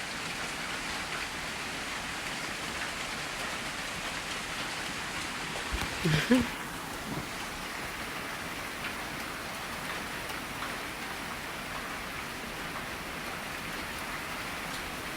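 Heavy rain pouring steadily as a dense, even hiss. A brief voice-like sound breaks in about six seconds in.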